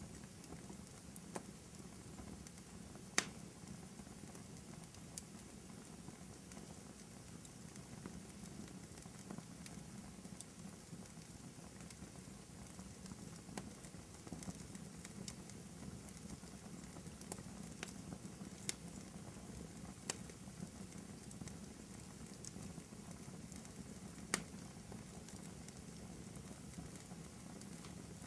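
Wood fire burning in a fireplace: a steady low rumble of flames with scattered sharp crackles and pops from the burning wood, the loudest pop about three seconds in.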